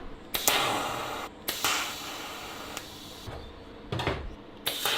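A welder running in short bursts of steady crackling hiss while welding an exhaust pipe: three welds, the middle one the longest, cut off sharply each time. A knock is heard between the second and third.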